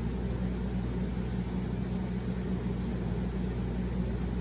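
Steady low machine hum with an even hiss: constant background noise in a room.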